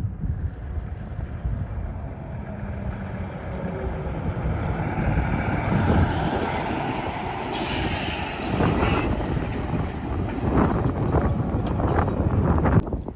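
Semi truck going by close, its engine and tyre noise building over several seconds, with a sharp hiss about two-thirds of the way through.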